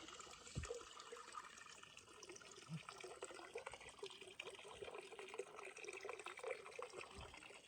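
Faint, steady trickle of running water, with a couple of brief low thumps.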